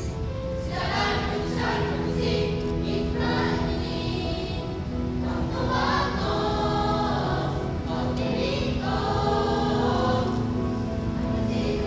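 Junior high school class choir singing, with sustained held notes in phrases that swell and change every second or two.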